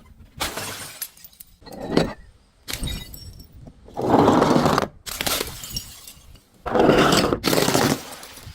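Glass bottles breaking in a run of separate crashes, about six in all, the longest and loudest around four seconds in and again near the end.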